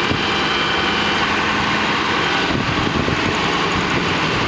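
Cummins ISB 6.7-litre inline-six turbo diesel idling steadily.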